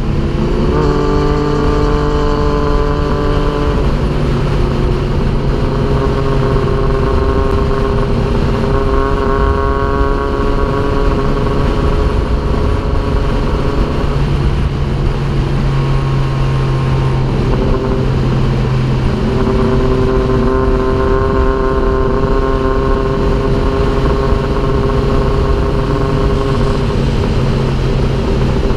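Triumph Daytona 675's three-cylinder engine at high revs, its note rising in the first second and then holding nearly steady at speed, with a short dip in pitch near the middle.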